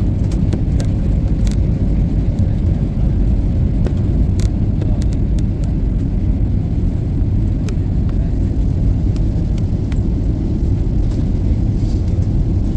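Steady, loud, low rumble of a vehicle in motion, with a few faint clicks over it.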